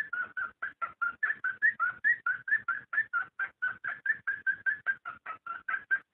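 Cockatiel mating calls: a rapid, even run of short chirps, about six a second, lasting several seconds.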